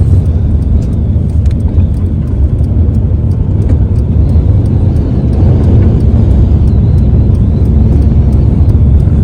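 A car driving, with a loud, steady low rumble of engine and road noise and a few faint ticks.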